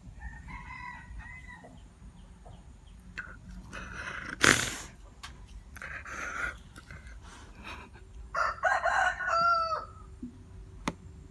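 Crowing like a rooster's cock-a-doodle-doo. The longest call comes near the end, lasts about a second and a half and drops in pitch as it closes; shorter calls sound within the first second or so. A sharp knock, the loudest sound, comes a little before halfway.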